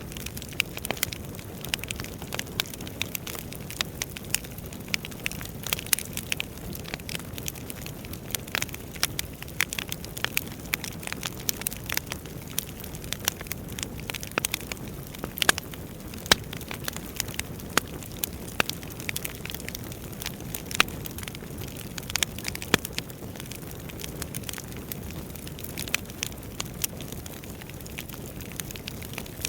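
Wood fire burning in a fireplace: a steady low rumble of flames with constant irregular crackling and occasional sharper pops from the burning logs.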